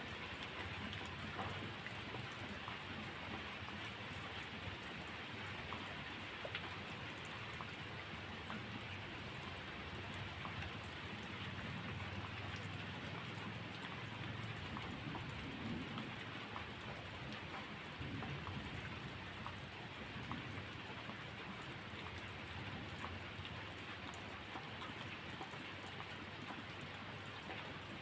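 Steady rain falling, with a low rumble of thunder swelling and fading in the middle.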